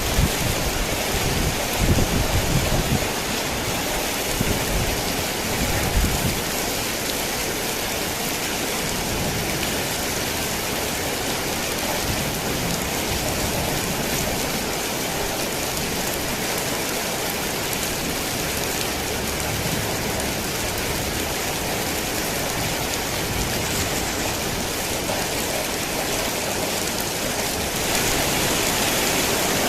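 Heavy rain falling steadily on a tin roof, an even hiss. Low thunder rumbles under it for the first few seconds and dies away by about six seconds in. The rain gets slightly louder near the end.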